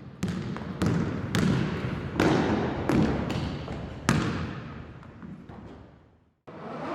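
A series of sharp thuds at uneven intervals, each ringing on with echo as in a large hall, dying away near the end.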